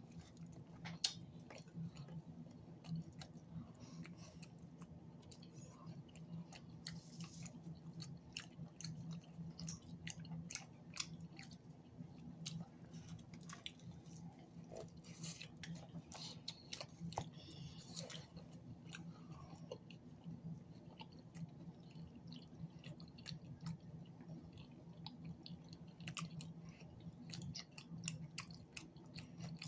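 Faint, close-up chewing of cheesy loaded flatbread pizza: soft, irregular mouth clicks and smacks, over a steady low hum.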